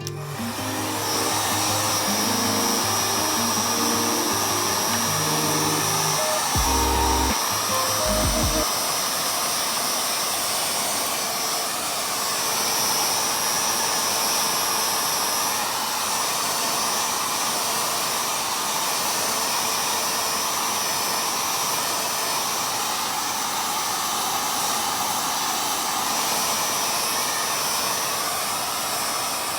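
Hair dryer blowing at a steady level, an even rush of air with a thin high whine. Plucked-string music plays under it for the first eight seconds or so, then stops.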